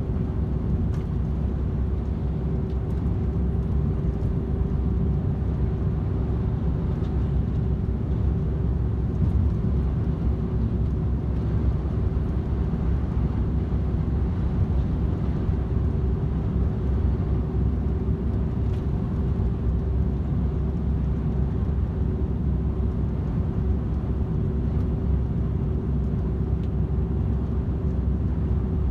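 DAF XF 510 truck, with its PACCAR MX-13 straight-six diesel, cruising at steady motorway speed: a constant low engine and road rumble with a steady hum held at one pitch.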